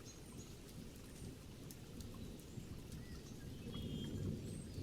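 Faint birdsong: scattered short high chirps and a brief trill, over a steady low outdoor rush.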